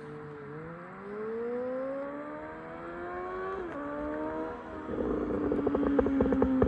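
Suzuki GSX-S750 inline-four running through a straight-through Yoshimura exhaust with no dB killer and a removed catalytic converter. It revs up in gear, drops pitch at a gear change about three and a half seconds in, and pulls again. From about five seconds in, on the closed throttle, the exhaust crackles and pops on the overrun.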